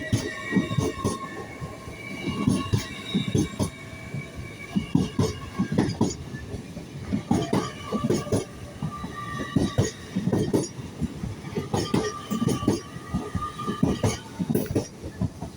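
LNER Class 800 Azuma train rolling past, its wheels clattering over rail joints in irregular knocks, with high-pitched wheel squeal or whine coming and going.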